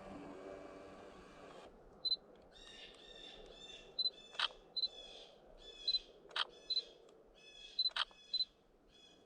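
A camera beeping several times with short, high focus-confirmation beeps, with three sharp shutter clicks among them. Behind them runs a string of rapid, high bird calls.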